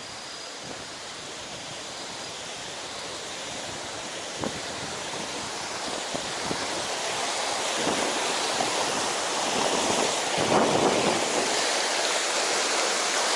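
Rushing water of a mountain stream swollen by typhoon rain, a steady rush that grows louder as it is approached. There are a few faint knocks along the way.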